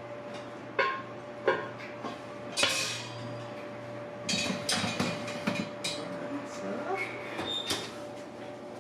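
Kitchen clatter as cookware is handled: three sharp knocks in the first three seconds, then a busier run of clinks and rattles in the second half.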